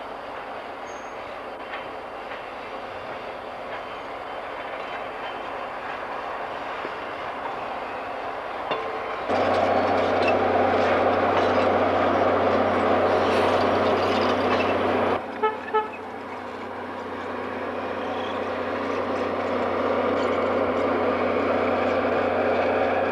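Diesel-hauled passenger trains on the move. A train's wheels and locomotive engine rumble past, growing louder and then jumping to a much louder stretch at about nine seconds that stops suddenly at about fifteen. Two very short toots follow. A second train, led by an EMD FP7A diesel locomotive, approaches, its engine and rail noise rising steadily toward the end.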